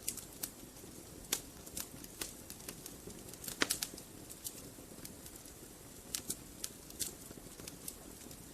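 Wood fire burning in a fireplace: irregular sharp crackles and pops from the logs over a low steady hiss of the flames, with a louder pop about three and a half seconds in.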